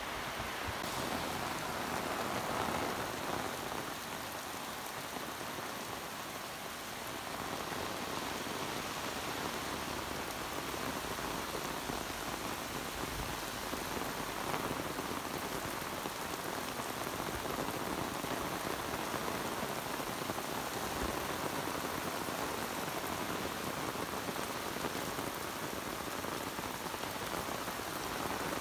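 Heavy tropical downpour: rain pouring steadily onto the road, grass and pavement.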